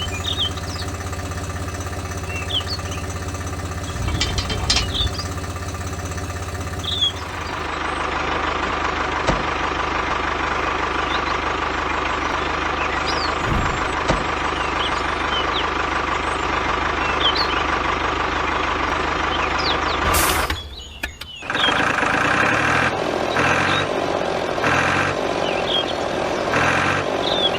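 Tractor engine running steadily; its tone changes about seven seconds in. It breaks off briefly about two-thirds of the way through and comes back with a pulsing beat.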